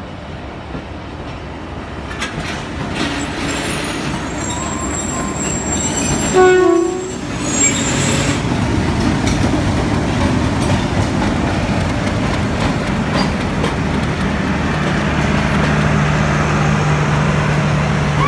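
Two express trains passing slowly on neighbouring tracks, with a single horn blast of about a second around six seconds in. After the horn, the diesel-electric locomotive drones steadily as it passes close by, followed by the rumble and rattle of its coaches rolling over the rails.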